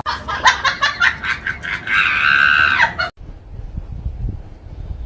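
A shrill scream: a quick run of short, choppy yelps, then one long high-pitched cry that cuts off abruptly about three seconds in. After it comes only low rumbling noise.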